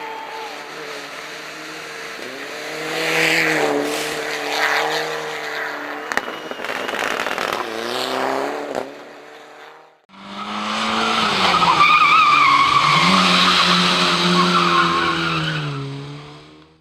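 Race car engine revving hard, its pitch rising and falling through gear changes as the car passes. After a sudden cut about ten seconds in, a second loud engine run follows.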